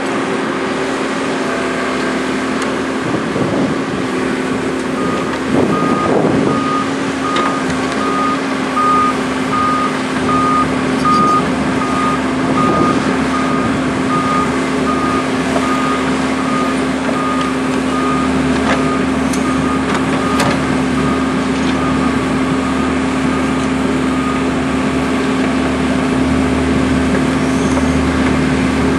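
Heavy vehicle engine running steadily, with a reversing alarm beeping about once a second; the beeping starts a few seconds in and stops a few seconds before the end.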